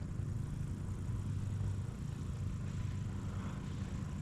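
Steady low rumble of distant road traffic, with a faint steady high tone above it.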